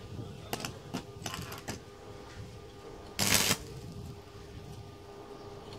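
Several light clicks and taps on metal, then one short, loud burst of hissing noise about three seconds in, over a steady hum.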